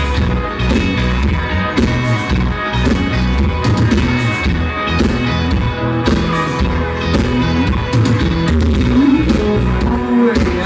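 Live country-rock band playing at full volume, with electric guitar over drums and bass guitar, in a rough, loud audience recording.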